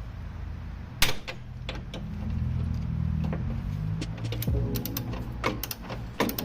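Hand tools on the radiator mounting bolts: a sharp metal clank about a second in, then a socket ratchet clicking in quick runs near the end as the bolts are undone.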